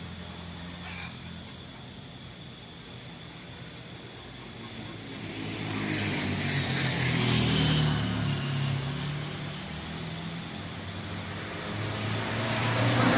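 A motor vehicle's engine hum whose pitch shifts, swelling as if passing about six to eight seconds in and again near the end, with a thin steady high tone throughout.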